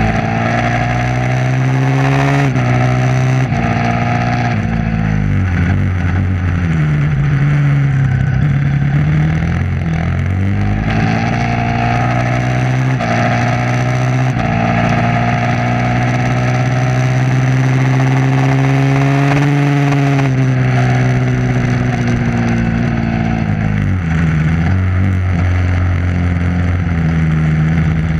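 Motorcycle engine at speed on a track, revving hard through the gears. The pitch climbs and drops sharply at each upshift, falls away as it slows, then holds high on a long pull.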